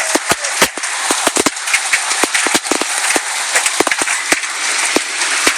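Large hailstones pelting down, striking hard surfaces in a rapid, irregular run of sharp cracks over the steady hiss of heavy rain.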